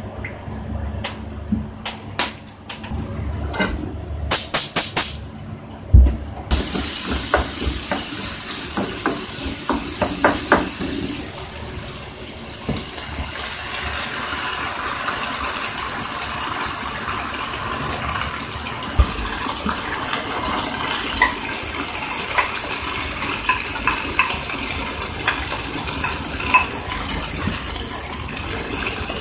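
Onions frying in olive oil in a frying pan: a steady sizzling hiss that starts suddenly about six seconds in, with light clicks of a wooden spatula stirring. Before it, scattered clicks and knocks, the loudest a quick cluster of sharp knocks about four to six seconds in.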